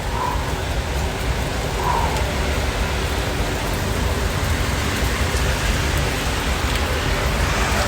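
Heavy rain pouring down, a steady loud hiss with a strong low rumble beneath it.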